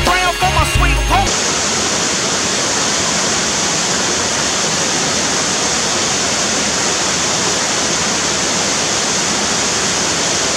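A song with singing and a heavy bass line cuts off about a second in. A steady, even rushing noise, like falling water, takes over at once and holds unchanged.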